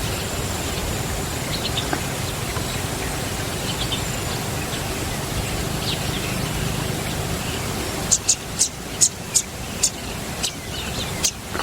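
Small bird chirps: faint short high calls every couple of seconds over a steady outdoor hiss, then about eight seconds in a quick run of sharper, higher chirps lasting a few seconds.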